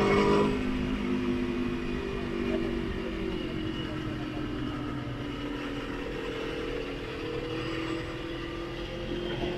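Motorcycle engine heard on board while riding, its revs peaking right at the start and then falling slowly over several seconds as the throttle is rolled off, before picking up again near the end. Wind rushing over the microphone runs underneath.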